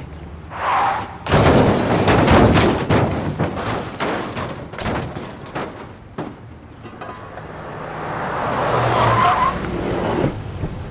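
Designed film sound effects: a loud noisy rush about a second in and a dense run of sharp impacts, then a swell that builds to a high squeal near the end and cuts off suddenly.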